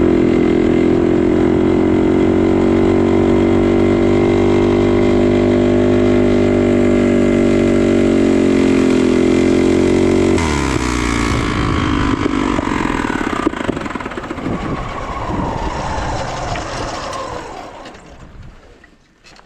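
Mini bike engine running at a steady high speed, then about ten seconds in it loses power: its pitch falls away and the sound fades out over several seconds as the engine dies. The engine has given up mid-race.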